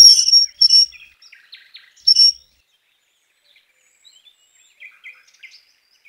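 Small birds chirping: a few loud, high chirps in the first second and again at about two seconds, then fainter, scattered chirps.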